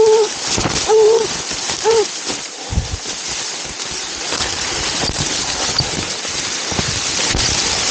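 A tracking dog barks three times, about a second apart, in the first two seconds while working a blood trail, over a steady rustling hiss.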